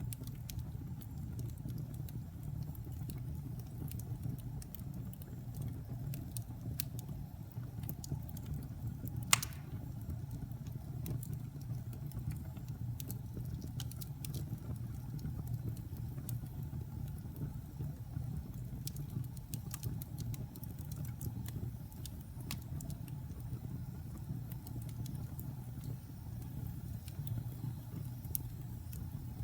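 Wood fire burning in a fireplace: a steady low rumble of flames with scattered small crackles, and one loud, sharp pop about nine seconds in.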